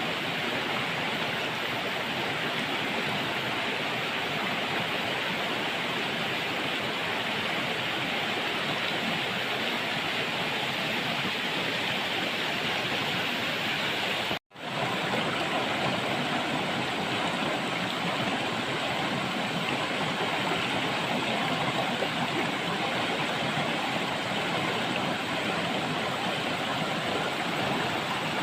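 River water rushing steadily over rocks. The sound drops out for an instant about halfway through, then resumes.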